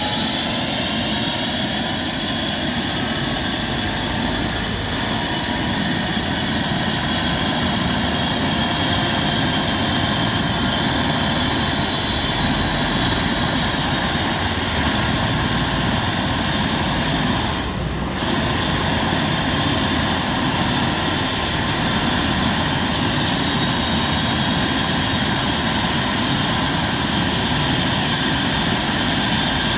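Emergency medical helicopter running: steady turbine whine over rotor and engine noise, with some high tones slowly rising in pitch. There is a brief dip in the sound about eighteen seconds in.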